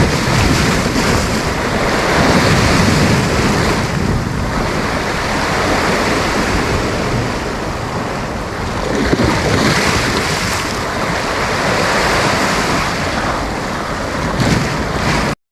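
Sea waves breaking and washing up a beach: a continuous rushing surf that swells and eases every few seconds, then cuts off abruptly right at the end.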